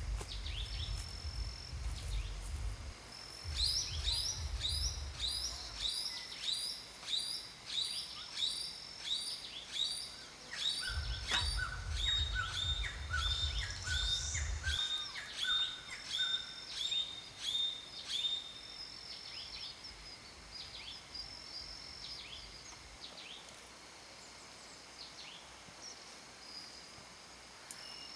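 Wild birds calling: a long run of short, sharp, repeated notes at about two a second, with a second, lower series of notes joining for a few seconds in the middle. A low rumble comes and goes underneath, and the calls thin out near the end.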